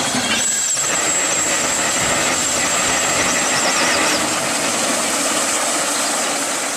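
Steam excavator's machinery running with a steady, even hiss-like noise.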